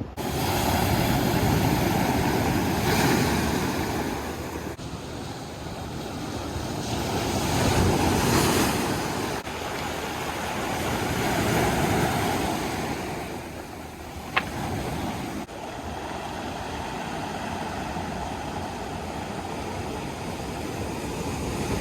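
Ocean surf breaking on rocks, the rush of the waves swelling and easing every few seconds. A single sharp click about two-thirds of the way through.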